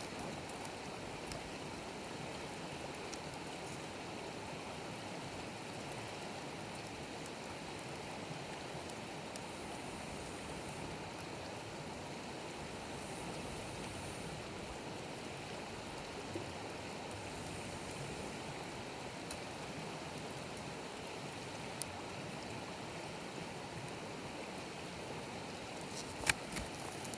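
Wood campfire burning with a steady hiss, broken by a few single sharp crackles from the firewood.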